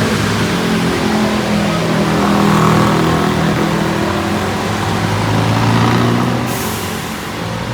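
Road vehicle engines running and passing on a wet street, their pitch shifting as they go, over a steady hiss of heavy rain. A short sharp hiss comes about two-thirds of the way in.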